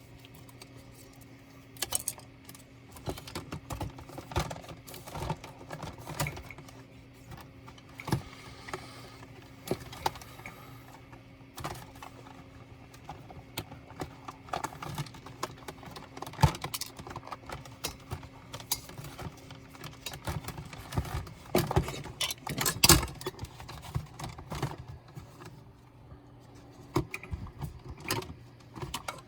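Irregular clicks, taps and light clatter of a laptop's small parts and tools being handled during disassembly, with a louder cluster about three-quarters of the way through, over a faint steady hum.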